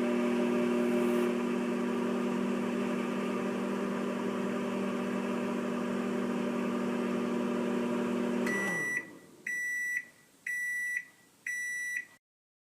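Microwave oven running with a steady hum, which winds down with a falling pitch near the end of the cycle. It then beeps four times to signal that it has finished.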